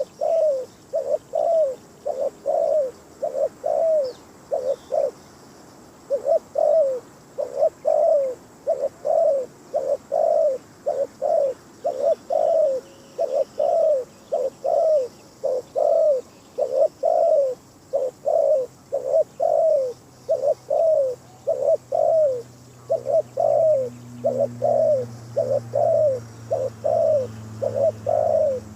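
Spotted dove cooing: a lure call of short coo notes repeated in quick rhythmic phrases, with a brief pause about five seconds in. A faint low hum comes in during the second half.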